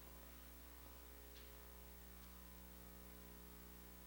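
Near silence: a steady electrical hum and faint hiss from the recording system.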